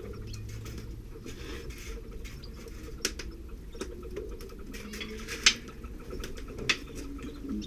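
Canaries moving in their nest: soft rustling and scattered sharp ticks and clicks, the loudest about five and a half seconds in, over a steady low hum.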